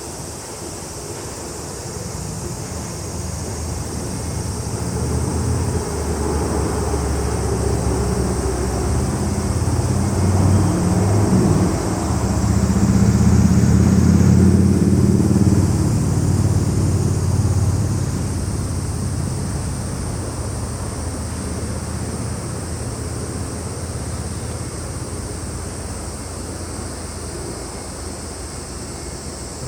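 A motor vehicle passing, its low engine rumble swelling to its loudest about halfway through and then fading away. A steady high-pitched chorus of insects runs underneath.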